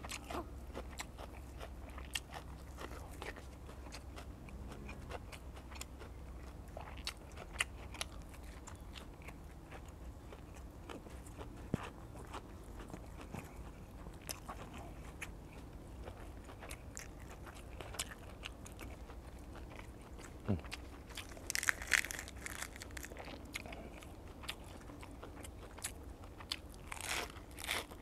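A person biting and chewing crunchy food close to a clip-on microphone: a steady run of small crunches and mouth clicks, with louder bouts of crunching about three-quarters of the way through and again near the end.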